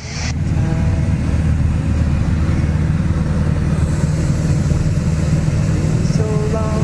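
Light propeller plane's engine and propeller droning steadily in cruise flight, heard from inside the cabin.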